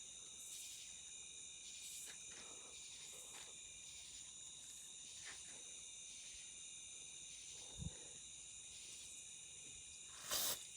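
Faint, steady, high-pitched chirring of an insect chorus, with a dull thump about eight seconds in. Near the end comes a short hiss from an aerosol can of parts cleaner being sprayed at wasps.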